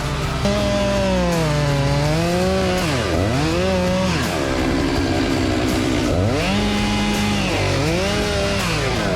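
Two-stroke chainsaw running at high revs while cutting wood. Its pitch sags several times as the chain bogs down under load in the cut, then climbs back each time.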